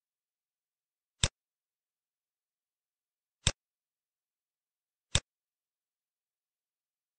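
Three single computer mouse clicks, sharp and short, about a second, three and a half and five seconds in, with dead silence between them.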